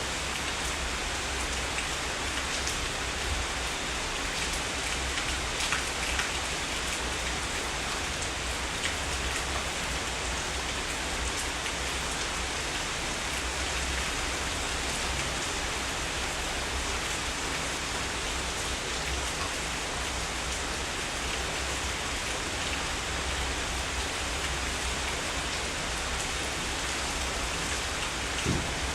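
Heavy rain falling steadily, a dense even hiss with scattered individual drops ticking.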